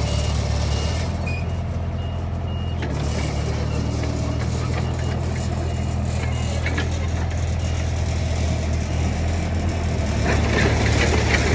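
Heavy diesel earthmoving machine running steadily, with a reversing alarm beeping in an even series through the first part. There are a few metallic clanks, and a louder rattling clatter starts about ten seconds in.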